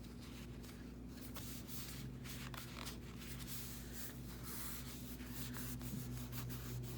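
Soft paper rustling and rubbing as journal pages and glued pieces are handled and pressed down, over a steady low hum.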